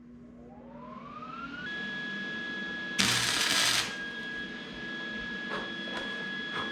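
Welder powering up with a rising whine that settles into a steady high tone, then about three seconds in a loud one-second hiss of the welding arc as a tack weld is laid on a steel brake-line fitting; the tack holds.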